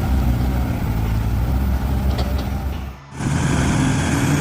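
Heavy truck engine running steadily. It cuts off abruptly about three seconds in and gives way to another heavy truck engine running at a different pitch.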